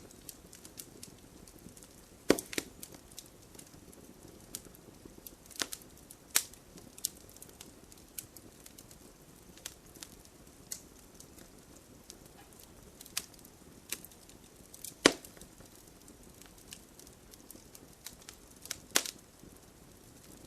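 Fire burning in a fireplace, crackling with irregular sharp pops over a soft steady hiss; the loudest snaps come about two seconds in, around six seconds, near fifteen seconds and near the end.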